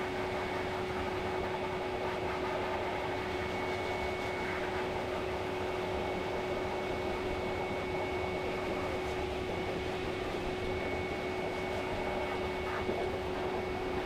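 Dog grooming dryer running steadily: a constant rush of air with a steady hum and a thin whine underneath.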